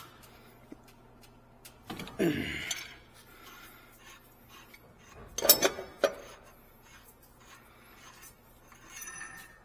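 Metal hand tools clinking and clanking, wrench on metal, while working on a steam trap's fittings. There are a few separate knocks, the loudest with a short ring about halfway through, and a light metallic ring near the end, over a steady low hum.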